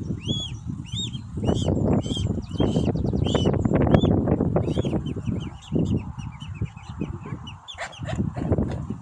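Swan cygnets peeping: many short, high, arching chirps repeated in quick succession, over an uneven low rumble.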